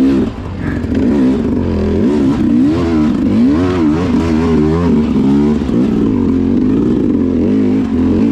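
Enduro motorcycle engine revving up and down over and over as it is ridden, its pitch rising and falling about once a second.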